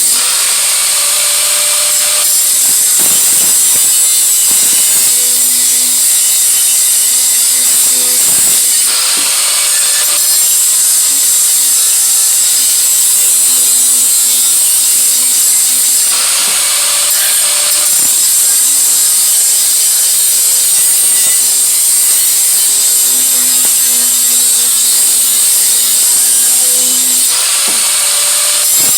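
Handheld power grinder working steel on an exhaust head pipe, cleaning it up so the joint will fit tighter. It runs steadily and loudly with a hissing grind, its motor note rising now and then, about four times.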